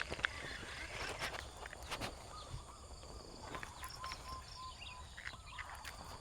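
Outdoor ambience of light clicks and rustles, with a faint bird calling in a short repeated note in the middle.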